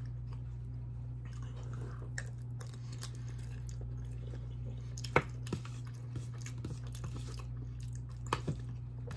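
Close-up chewing and mouth sounds of a person eating, with scattered sharp wet smacks, the loudest about five seconds in and a few more near the end, over a steady low hum.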